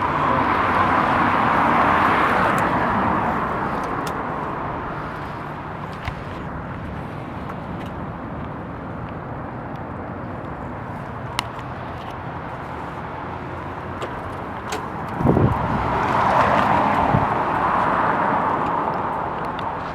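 Car on the road: a steady rush of engine and tyre noise that swells near the start and again near the end, with a brief low rising tone about fifteen seconds in.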